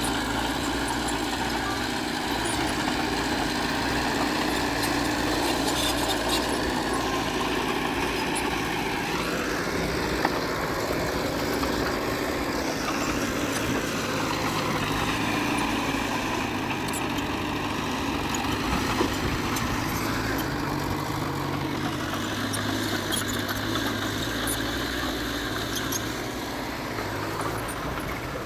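Heavy diesel earthmoving machinery running steadily, its engine revving up about nine seconds in and easing back down a few seconds later.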